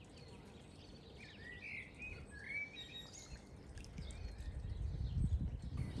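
Small birds giving a few short chirps in the first half, over quiet outdoor ambience, with a low rumble building toward the end.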